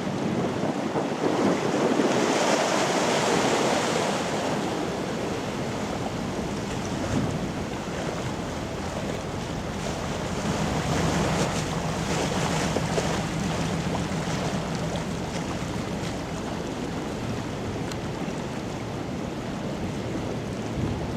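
Wind buffeting the microphone over the wash of river water, gustiest a couple of seconds in, with a low steady drone for several seconds in the middle.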